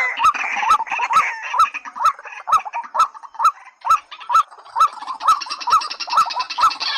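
Calls of white-breasted waterhen and watercock: a short hooked note repeating about twice a second, each with a sharp click, under higher chattering calls. A faster, higher rattle joins about five seconds in.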